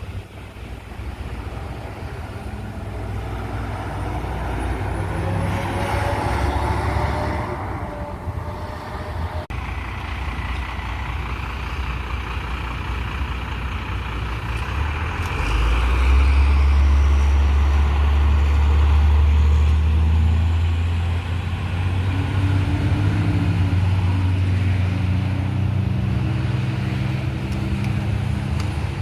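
Trucks driving past on a road. About halfway through, a heavy truck's engine comes in as a loud, deep rumble, and its pitch climbs near the end as it pulls away.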